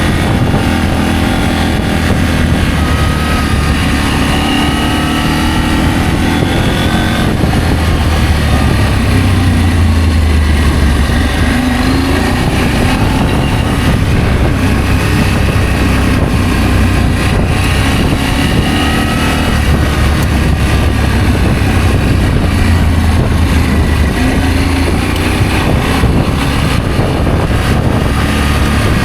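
Adventure motorcycle engine running while being ridden, its pitch rising and falling with the revs over a steady low rumble.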